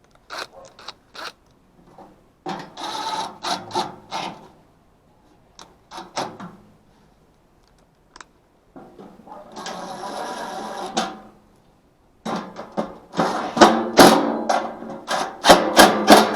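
Bursts of clicking and metal clatter from hand work on an HVAC unit, with a steady whir lasting about two seconds near the middle and a dense run of loud clicks and rattles toward the end.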